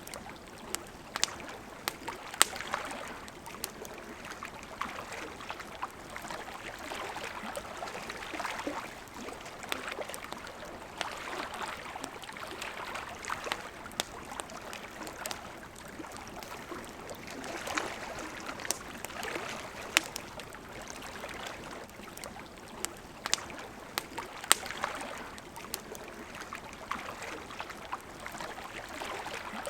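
A flowing river murmurs steadily, swelling and easing, while a wood campfire crackles with irregular sharp pops throughout.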